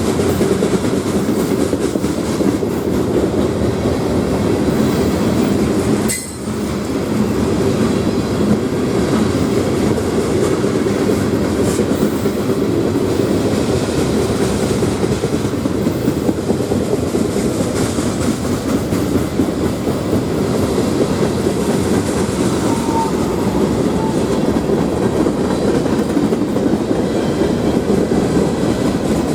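CSX freight train's cars rolling past: a steady, loud rumble and rattle of steel wheels on rail, dipping briefly about six seconds in.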